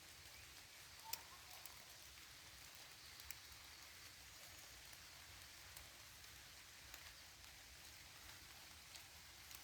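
Faint steady rain falling in a forest, with a few separate drops ticking sharply against it.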